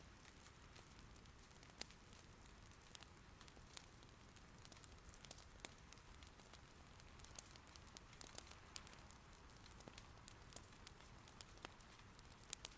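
Faint wood fire in an irori hearth crackling, with irregular sharp pops over a soft, steady hiss of rain.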